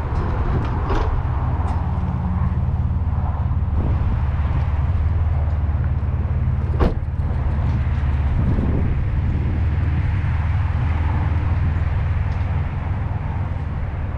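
A vehicle engine running steadily at a low, even rumble, with scattered light clicks and one sharp click about seven seconds in.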